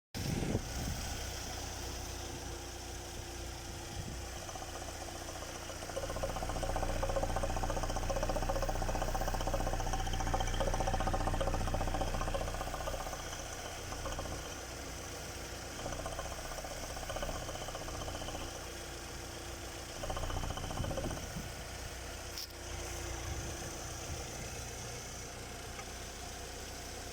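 Saab 9-3 2.0T turbocharged four-cylinder engine idling with a knocking from the engine when the oil filler cap is opened. The sound grows louder for several seconds in the middle, and there is one sharp click near the end.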